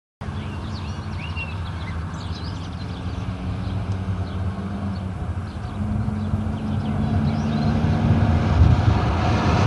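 Large engine running with a low, steady drone that slowly grows louder, with small birds chirping faintly during the first few seconds.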